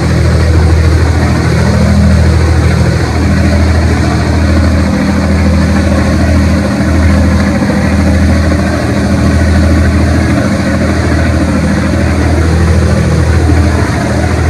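Boat engine running steadily, a loud low drone that swells and eases unevenly, over a broad hiss.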